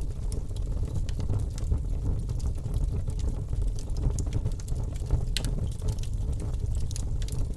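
Wood fire burning in a fireplace: a steady low rush of flames with scattered sharp crackles and pops of burning logs, one clear pop about five seconds in.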